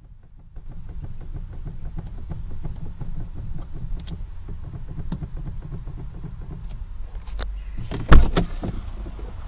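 Knocking from a Ford Fusion's front end, which the owner suspects is the steering rack: a quick low rattle with a few sharp knocks, and one loud thump about eight seconds in.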